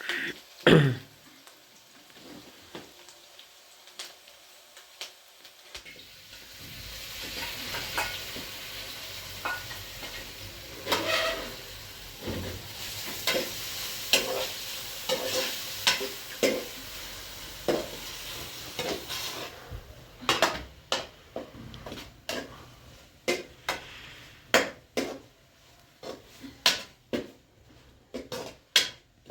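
Food frying in a pan, stirred with a utensil that knocks and scrapes against it. The sizzling starts about six seconds in and stops about twenty seconds in, leaving a run of sharp utensil knocks on the pan.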